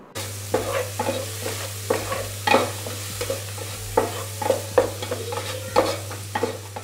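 Onion-tomato masala with spices sizzling in oil in a non-stick pot while a spatula stirs it, scraping and knocking against the pot in quick irregular strokes, over a low steady hum. The masala is being fried until the oil separates from it.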